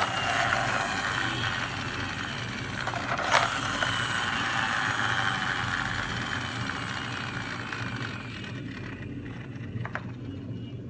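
Toy bus's gear motor whirring as its wheels spin, with a knock about three seconds in, then slowly running down and fading out near the end.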